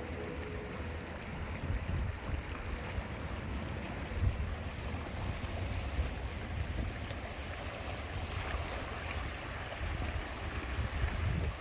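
Sea waves washing, with wind buffeting the microphone in a steady, uneven low rumble.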